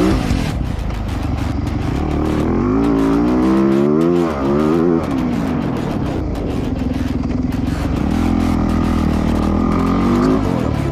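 Dirt bike engine revving as it is ridden, its pitch rising and falling with the throttle, with a short drop in throttle about four seconds in.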